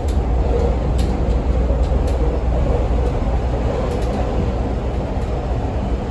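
Interior noise of a CTA 5000-series rapid-transit car running between stations: a steady low rumble of wheels on rail, with occasional faint clicks.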